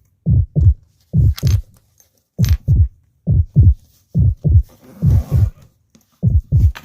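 Heartbeat sound effect: steady low double thumps (lub-dub), about one beat a second.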